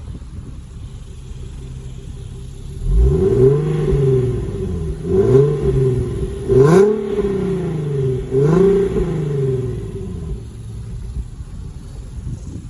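2014 Infiniti Q60's 3.7-litre V6 idling, then revved four times in quick blips, each rising and falling back. The third rev is the highest and loudest.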